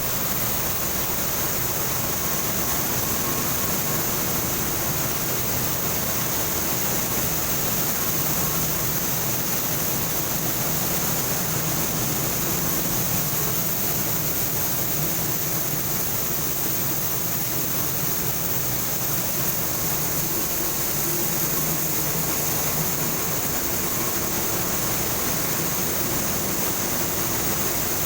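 BPK CPS 300 separating machine running: a steady, even mechanical noise with a strong high hiss and a faint constant hum underneath.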